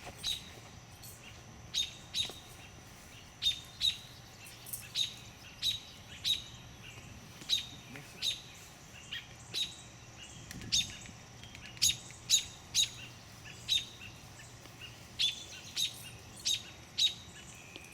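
Small bird giving a long series of sharp, short alarm calls, about one to two a second: parent birds mobbing a black snake that is raiding their nest.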